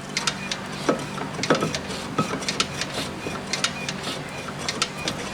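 Small metal parts and hand tools clinking and tapping, a couple of dozen irregular light knocks with short metallic rings.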